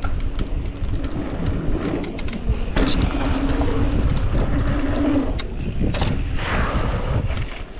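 Mountain bike ridden down a dirt trail: a steady rush of wind on the microphone with tyre noise and the rattle and knocks of the bike over rough ground, and a steady buzz for about two and a half seconds in the middle.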